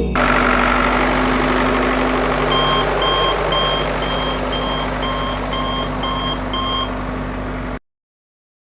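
Reversing-alarm beeps, about two a second, over a steady hum and hiss. The sound cuts off to silence near the end.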